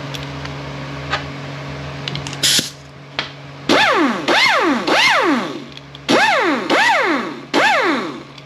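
Freshly repaired Cornwell CAT2125 air impact wrench run free in six short trigger pulls, its air motor whining up in pitch and winding back down each time, a test run showing it runs okay. A short hiss of air about two and a half seconds in, over a steady low hum.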